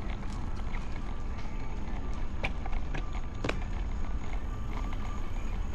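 Steady low rumble of wind on the microphone and road noise from a moving bicycle, with a few sharp clicks about halfway through.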